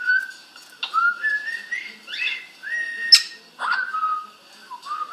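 Blue-fronted Amazon parrot whistling a string of about six short phrases, several sliding upward in pitch, some starting with a sharp click.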